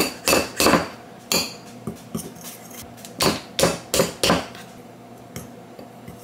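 Spoons knocking and clinking against a ceramic bowl: sharp taps in two clusters, a few in the first second and four more about three to four and a half seconds in, as Greek yogurt is knocked off a measuring spoon into the dry protein-powder mix.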